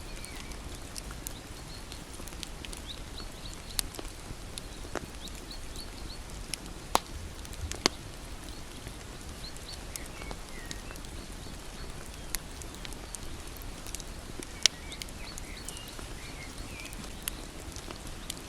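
Wood fire crackling with a steady hiss and scattered sharp pops, the loudest a few seconds apart, with faint short high chirps in the background.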